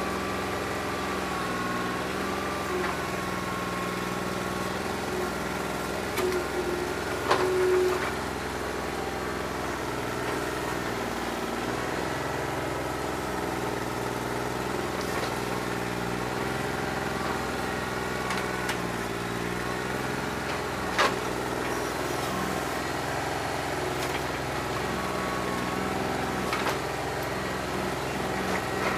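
New Holland 1320 tractor's three-cylinder diesel engine idling steadily while running on only about two and a half cylinders because of a bad injector. A few sharp clicks sound over it, the loudest about seven and twenty-one seconds in.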